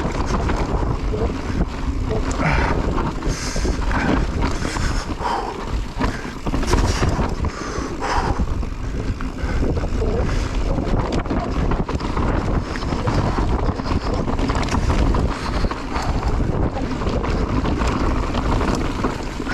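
Steady rushing noise with wind buffeting the microphone, broken by scattered short knocks.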